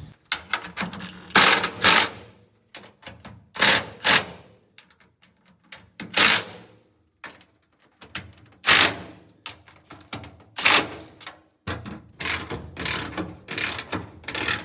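Irregular bursts of mechanical clicking and clattering, about a dozen short spells with quiet gaps between them.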